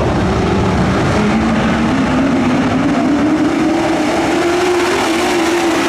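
Dirt-track race trucks' engines running loud, one engine note climbing in pitch over a couple of seconds as it accelerates and then holding steady, over the noise of the rest of the field.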